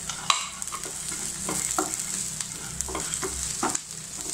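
Chopped onion, green chili and crushed badi sizzling in oil in a non-stick frying pan: a steady high sizzle, with a wooden spatula scraping across the pan in short strokes about every half second as it stirs.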